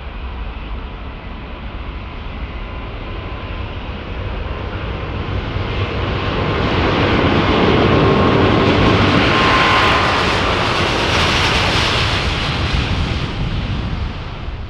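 Engine noise of a departing fixed-wing aircraft passing by. It builds steadily, is loudest about eight to twelve seconds in, and then fades away.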